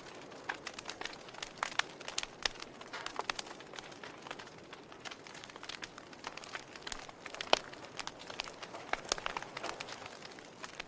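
Fire crackling: irregular sharp snaps and pops over a soft steady hiss, with one louder pop about seven and a half seconds in.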